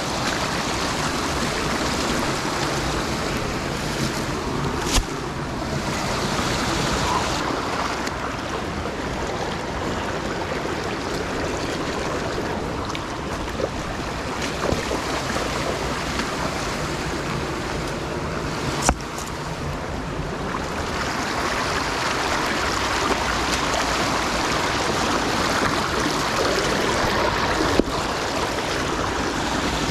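Steady rush of flowing water, with two sharp knocks about five seconds in and again near the middle.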